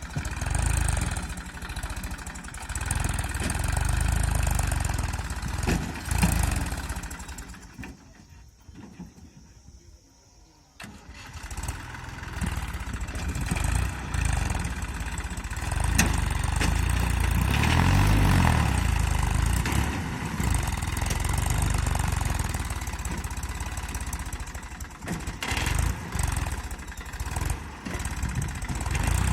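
Massey Ferguson tractor's diesel engine running. It drops away almost to silence for a few seconds about eight seconds in, then runs again, rising and falling in pitch briefly about halfway through.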